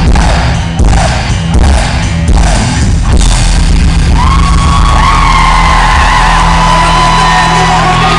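Rock band playing live and very loud, as heard from the audience: a pounding drum-driven rhythm for the first three seconds, then a sustained melody line of long held notes over a steady low drone.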